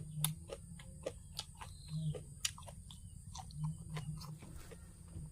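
A person chewing and smacking while eating papaya salad with sticky rice: irregular short wet clicks and smacks, with a steady low hum underneath.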